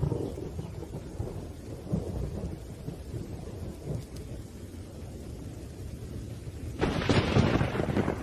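Thunder rumbling continuously over steady rain, with a louder peal of thunder nearly seven seconds in that lasts over a second.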